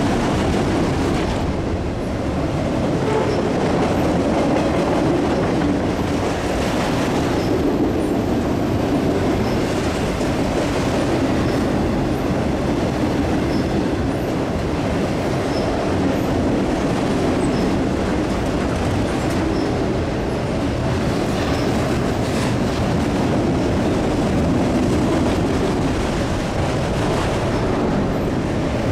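Freight train's autorack cars rolling past, a steady rumble of steel wheels on the rails.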